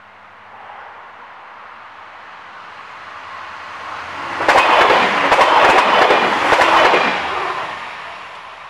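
Regional diesel multiple unit passing at speed. A rising rush peaks about four and a half seconds in, with rapid wheel clicks over the rails for about two and a half seconds, then fades away.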